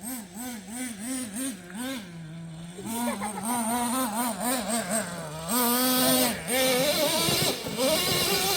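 Traxxas T-Maxx 3.3's small two-stroke nitro engine being blipped on and off the throttle, its pitch rising and falling several times a second. Near the end it revs up and holds a higher, steadier pitch.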